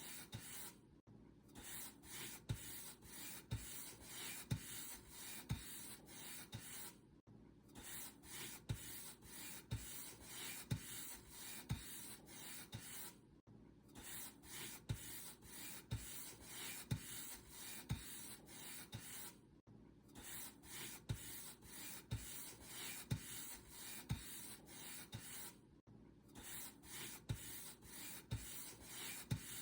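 Paint brush stroked back and forth over a surface: soft, repeated brushing swishes at a steady rhythm, with a brief pause about every six seconds.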